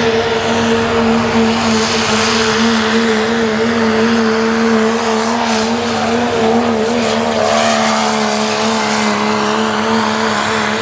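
Diesel engine of a 1993 Dodge Ram pulling truck at full throttle, dragging the weight sled down the track under heavy load. The engine holds one loud, steady pitch throughout.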